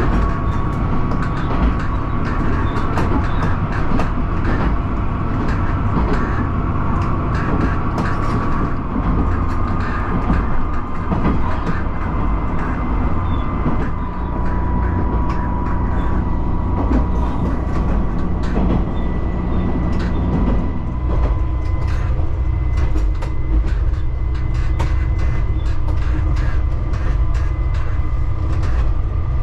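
Diesel railcar running along the line: a steady low engine and wheel rumble with a held whine, and short clicks from the wheels over the track. The running note changes about two-thirds of the way through.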